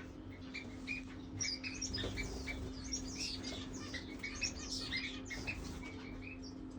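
Small birds chirping: many short, high chirps in quick succession, over a steady low hum.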